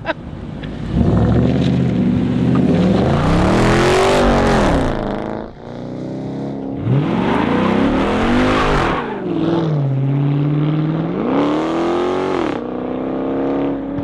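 Hemi V8 engine through a Flowmaster exhaust, revved three times. Each rev climbs and drops back, the last one held briefly before it settles to idle near the end.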